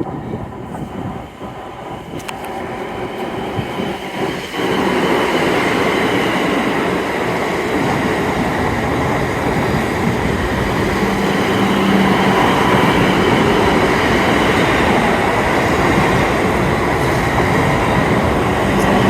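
Class 444 electric multiple unit passing through the station. It grows suddenly loud about four and a half seconds in and stays loud, with a brief steady low hum partway through.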